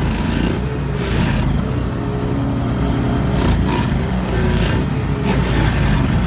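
Petrol engine of outdoor power equipment running steadily, with short rushing, scraping hisses every second or two over its hum.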